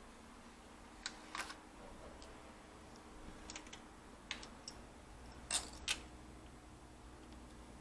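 Scattered light clicks and taps of a Lenovo B575 laptop's plastic case and parts being handled and pried at during disassembly, a handful of sharp clicks with the loudest pair about five and a half seconds in.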